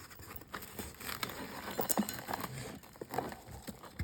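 Wrapping material being pulled off a slab by hand: a run of irregular crinkling and crackling with small knocks.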